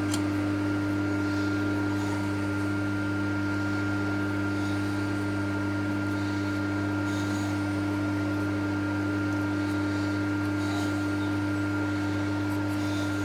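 TOS milling machine running steadily, a constant hum with a few steady tones.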